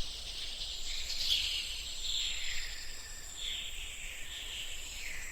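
Jungle ambience: a steady high insect drone with a series of short falling high calls, about one a second.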